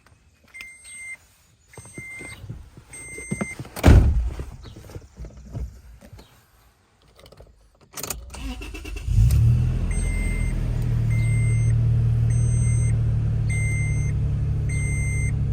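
Car's warning chime beeping repeatedly, then two loud thumps. About nine seconds in the engine cranks and catches on a cold start after sitting overnight, settling into a steady idle while the chime keeps beeping.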